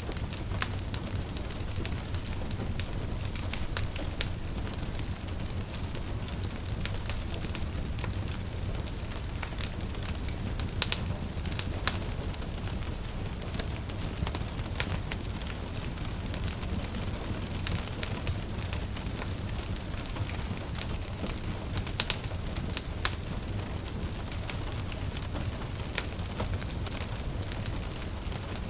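Wood fire crackling and popping, with irregular sharp snaps, a few louder than the rest, over a steady low rumble and a soft hiss of gentle rain.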